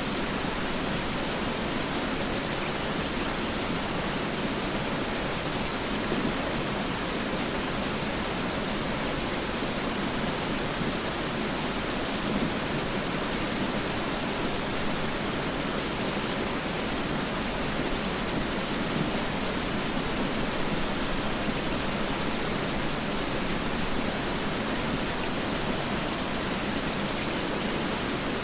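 Mountain river flowing, a steady, unchanging rush of water.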